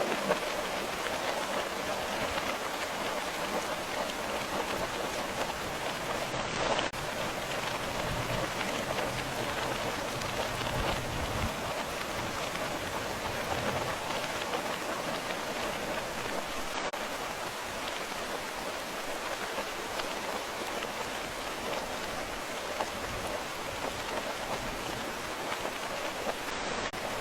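Steady rain falling in an even hiss. A low rumble swells briefly about eight to eleven seconds in.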